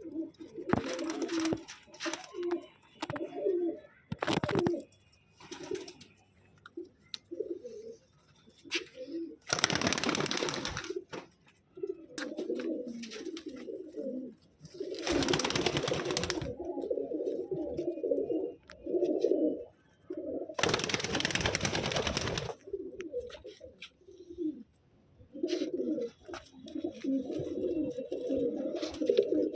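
Madrasi pigeons cooing over and over in short bouts, several birds overlapping. Three loud bursts of noise, each a second or two long, cut in at about ten, fifteen and twenty-one seconds.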